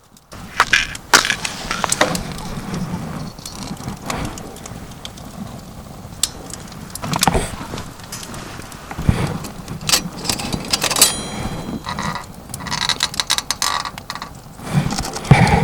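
Irregular knocks and clicks with a brief metallic ring about eleven seconds in, as of camping gear being handled.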